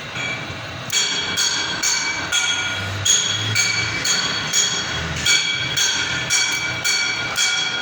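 Repeated hammer blows on a ringing piece of steel, about two a second, starting about a second in; each blow leaves a metallic ring at several fixed high pitches.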